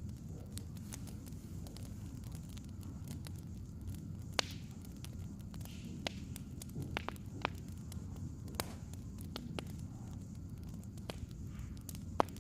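Wood fire crackling: irregular sharp pops and snaps over a steady low rumble, with the loudest pops about four seconds in, around eight and a half seconds, and near the end.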